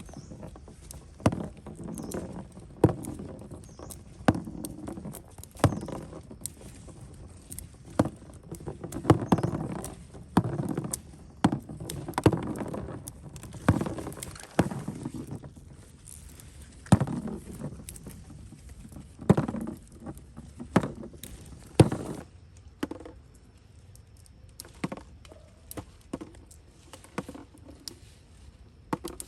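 Irregular sharp clicks and knocks, one every second or two, with rustling between them; after about twenty seconds they become fainter and sparser.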